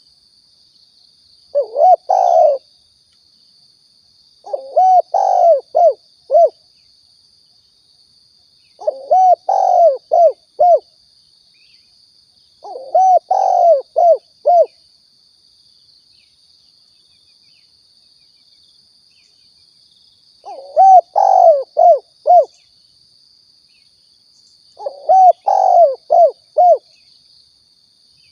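Spotted dove (tekukur) calling: six bouts of low, rolling coos, each a run of four to six notes, a few seconds apart with a longer pause midway, played as a lure call for attracting doves. A steady faint high whine runs underneath.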